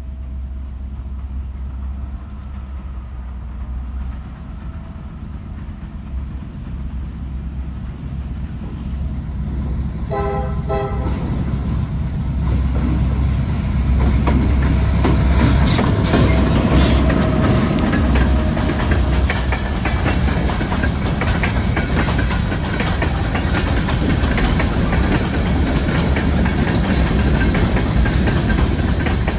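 Norfolk Southern freight train with two diesel locomotives approaching in a low rumble, with one short horn blast about ten seconds in. The locomotives go by close and loud around fourteen seconds in, then the covered hopper cars roll past with steady wheel clatter on the rails.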